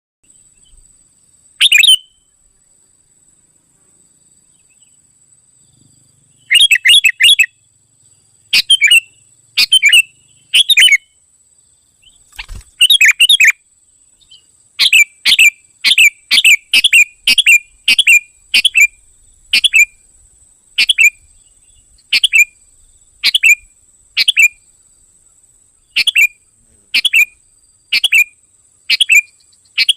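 Sooty-headed bulbul calls: short, loud, sharp chirps, sparse and in little clusters at first, then repeated regularly about once a second from about halfway through. A faint steady high whine runs underneath.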